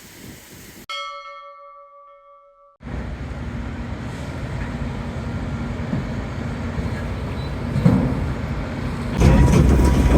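A single bell-like chime rings and fades out about a second in, then a steady low rumble starts abruptly and grows louder near the end.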